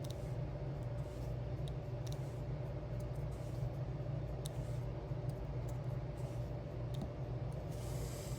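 Faint, scattered clicks of a diamond painting pen picking up and pressing resin gems onto a sticker, with a short rustle near the end. A steady low room hum runs underneath.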